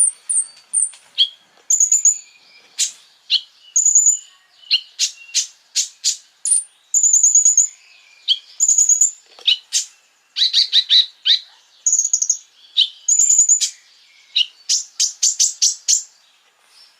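Konin songbird singing: a busy run of sharp, very high chirps and short rapid trills with brief pauses, stopping shortly before the end. This is a 'masteran' training recording for teaching caged songbirds new phrases.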